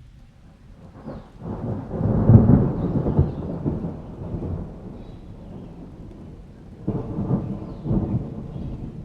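Thunder rumbling over steady rain: a long, deep peal builds about a second and a half in, peaks and fades over a few seconds, then a second, shorter rumble comes near the end.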